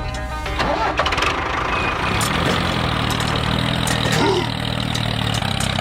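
Engine of a mini tractor running steadily, starting up about half a second in as background music breaks off.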